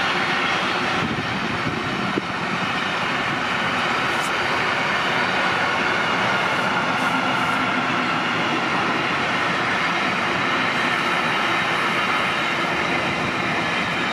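A train running past: steady noise of wheels on rails, with a faint steady whine above it.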